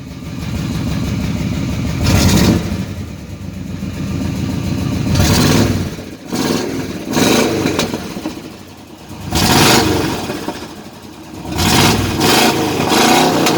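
Chevrolet C10 pickup's V8 revved in short blips every two to three seconds, dropping back toward idle between them. It runs through an open exhaust with the muffler hanging loose and no resonator, and it pops on the overrun.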